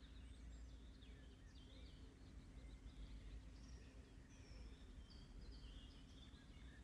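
Faint birdsong: several small birds singing, with many short whistled and chirping notes throughout, over a low steady rumble.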